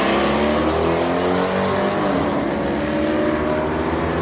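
Drag-racing car engines running loud, the engine pitch dipping and rising again about halfway through.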